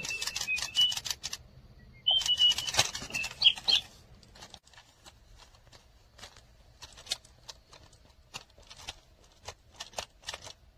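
ZURU Pets Alive Polly robotic toy parrot answering in two bursts of high-pitched, gliding chirps over a rapid clatter of clicks from its mechanism. After that only faint, scattered clicks follow.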